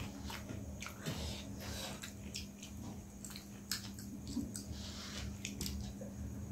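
Close-up eating sounds of chicken wings being chewed and bitten: soft, wet mouth clicks and smacks, several a second, with a bite into a wing near the end.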